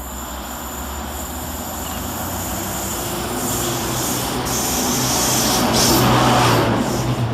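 Class 92 electric locomotive drawing in with a sleeper train, growing steadily louder to a peak about six seconds in. A steady low hum comes in around halfway, over a rushing noise from the wheels on the rails.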